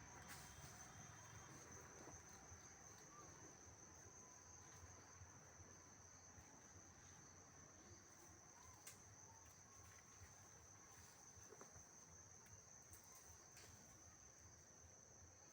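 Crickets trilling faintly in one steady high-pitched drone, with a few faint ticks.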